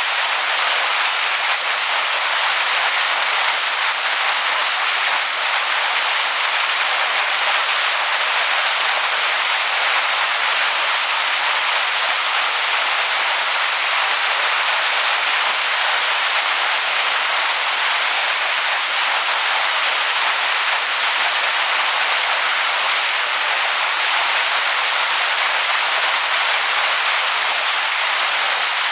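Waterfall rushing over rocks: a steady, even hiss of falling water.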